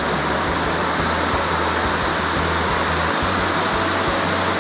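Waterfall pouring: a loud, steady rush of falling water that almost drowns out a voice.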